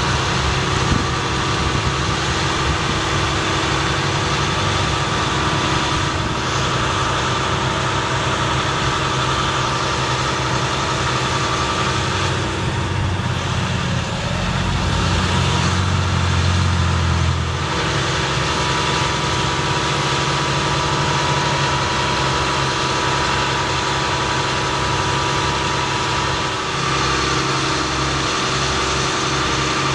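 2007 Ford F750 bucket truck's engine running steadily at idle, getting louder and deeper for a few seconds about halfway through before settling back.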